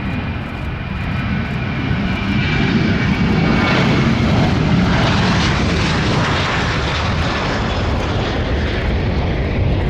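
Jet airliner's engines at high thrust as it climbs away on a go-around, a loud roar that swells over the first few seconds and holds.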